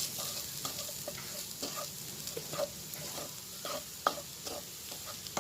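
A utensil stirring and scraping a prawn, onion and grated-coconut filling in a frying pan, with the oil sizzling underneath. The scrapes and taps come irregularly, the sharpest about four seconds in.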